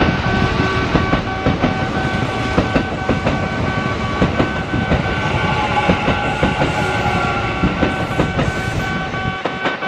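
Kintetsu train running through the station, wheels clacking over the rail joints with a heavy rumble that eases off near the end. A steady high ringing tone sounds alongside throughout.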